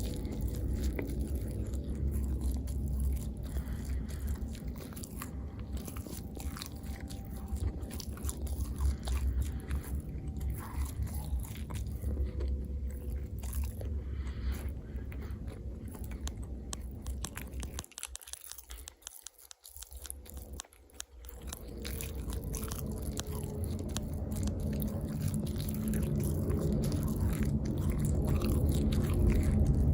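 Close-miked eating: biting, chewing and crunching of food, with many small wet clicks. It drops away briefly about two-thirds of the way through, then comes back louder.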